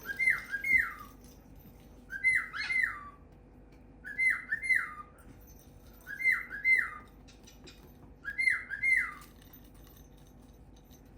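A pet parrot whistling the same two-note phrase five times, about every two seconds, each note dropping in pitch.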